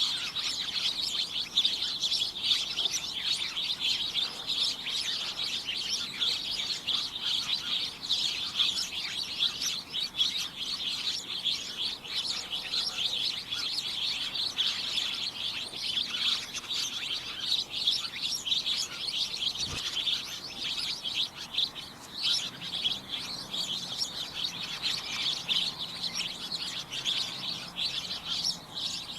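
Many small birds chirping at once, a dense, unbroken chatter of short overlapping high chirps.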